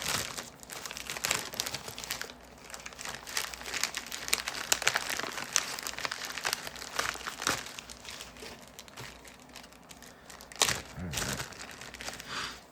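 Plastic packaging crinkling and rustling as it is handled, most likely the bag of a new replacement micro switch being opened, with one louder clack near the end.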